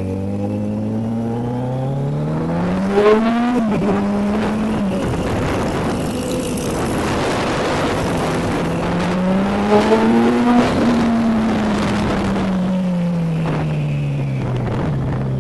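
Motorcycle engine with an aftermarket sport exhaust accelerating hard twice: the pitch climbs for about three seconds, holds, then drops, and a second climb peaks about ten seconds in before the engine slowly winds down. A rush of wind noise fills the middle stretch.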